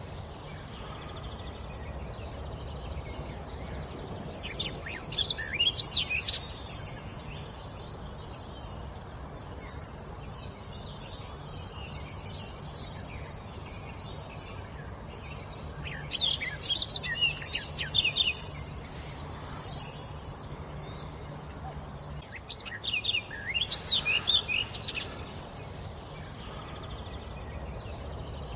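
A wild songbird singing in short bouts of rapid, high whistled notes, three bouts several seconds apart, over a steady low hum of background noise.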